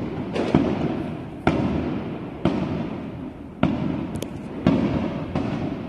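Fireworks shells bursting overhead: a run of about eight sharp booms, roughly one a second, each trailing off in a rolling echo off the surrounding tall buildings.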